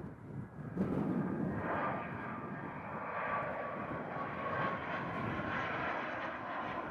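Jet airliner engines running close by: a low rumble, then a steady roar with a high engine whine from about two seconds in.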